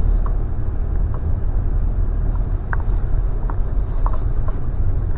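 Steady low rumble of a car heard from inside the cabin, with a few faint short squeaks scattered through it.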